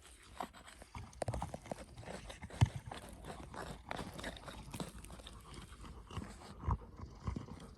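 A run of irregular knocks and clicks, with one louder knock about two and a half seconds in.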